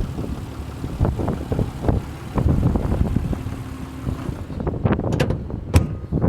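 Wind buffeting the microphone in uneven gusts over the R34 Skyline GT-T's RB25DET Neo turbocharged straight-six idling faintly underneath, exhaling through a NISMO catback exhaust.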